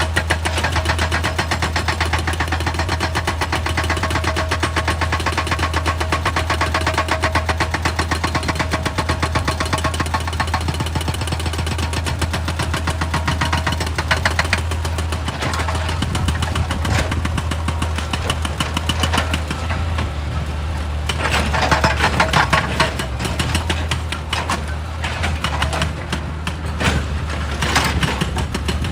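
Heavy diesel machinery, an excavator, running steadily with a fast, even clatter over a low hum; the clatter grows brighter and louder twice in the second half.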